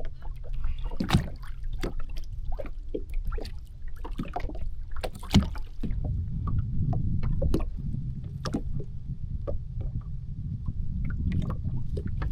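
Kawasaki jet ski running at a low idle on the water, a steady low rumble that gets louder about halfway through. Irregular splashes and sharp knocks sound over it.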